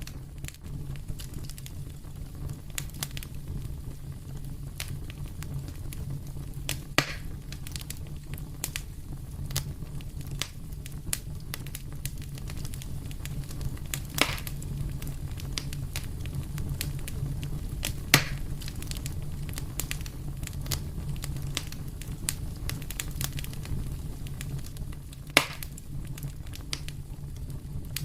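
Fire crackling in a fireplace: a steady run of small snaps and ticks over a low rumble, with four louder pops spread through it.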